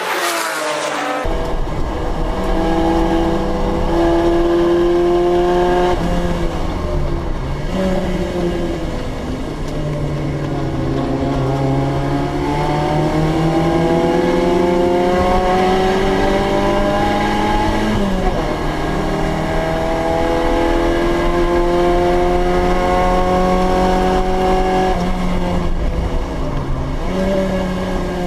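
A Group A or Group C touring car's engine running hard on track, its pitch climbing slowly through each gear and dropping suddenly at the gear changes, several times.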